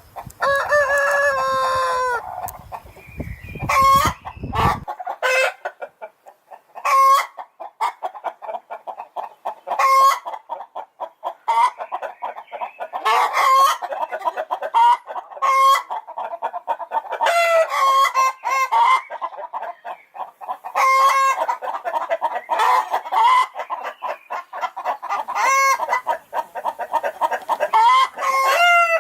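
Chickens cackling: a fast run of clucks broken every two to three seconds by a loud, high, drawn-out squawk, with a longer call falling in pitch near the start. This is the cackle hens make after laying an egg. A low rumble runs under the first five seconds.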